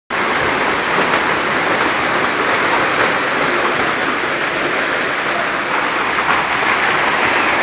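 Storm floodwater rushing down a street in a steady, loud torrent.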